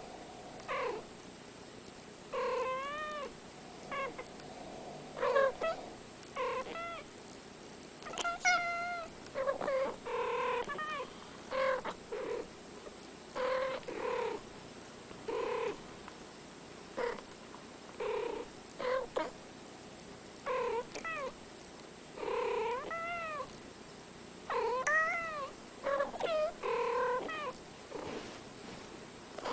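Two domestic cats meowing back and forth in a running exchange of short calls, each under a second long and rising and falling in pitch, coming about once a second with brief pauses between.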